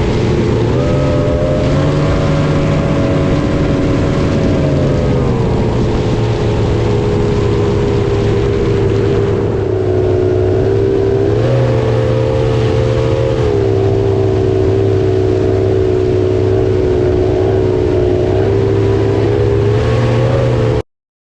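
Loud engine running steadily under way, its pitch shifting up and down slightly a few times, then cutting off suddenly near the end.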